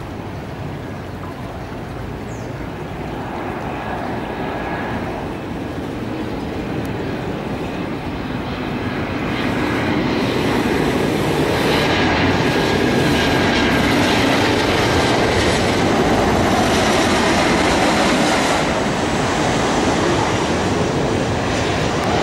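Train passing close by: a loud rushing rumble of wheels on rail that builds over about ten seconds, holds, and cuts off abruptly near the end.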